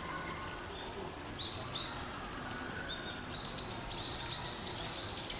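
Short, high chirps: two single ones a second or so in, then a quick run of about eight, some three a second, from about three seconds in.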